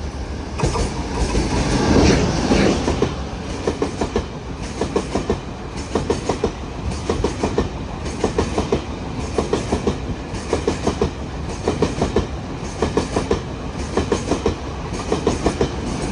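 A train passing through the station, its wheels clattering over the rail joints in regular clusters of clicks, with a louder rush of rolling noise about two seconds in.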